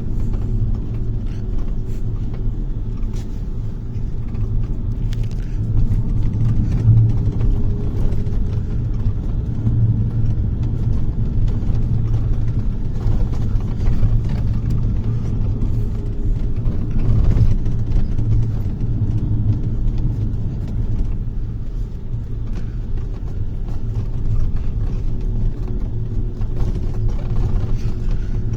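Bus engine and road rumble heard from inside the moving bus's cabin: a steady low drone, with faint higher engine tones and scattered small rattles and clicks.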